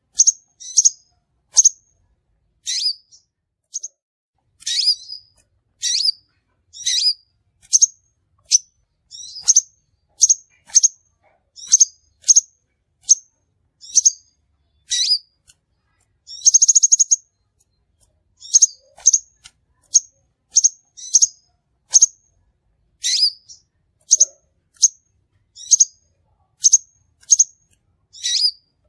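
Crimson sunbird calling: a long series of short, sharp, high chirps, about one or two a second with clean silence between them, and one brief buzzy trill a little past the middle.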